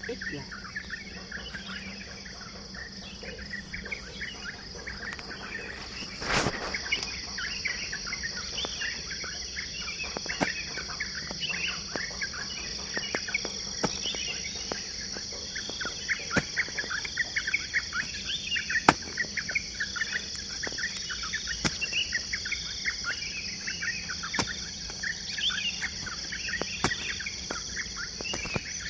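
Morning birdsong, with yellow-vented bulbuls (trucukan) among many birds chirping and singing continuously, over a steady high insect buzz. Sharp knocks come now and then, the loudest about six seconds in.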